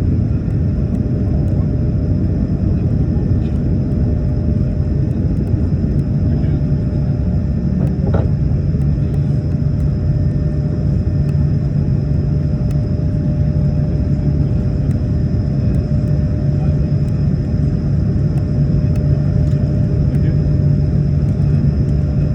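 Airbus A220-300's Pratt & Whitney PW1500G geared turbofan engines running steadily, heard from inside the cabin as a dense, even rumble. A low hum comes up about eight seconds in.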